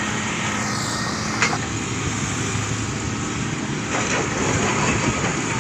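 Heavy diesel engine of an excavator running steadily, with a sharp metallic knock about a second and a half in.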